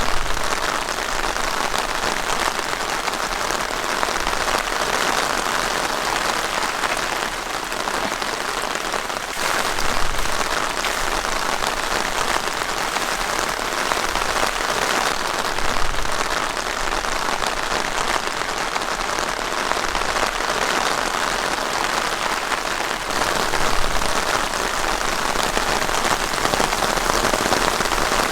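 Heavy rain falling steadily on a tent, a dense even patter with a few brief swells.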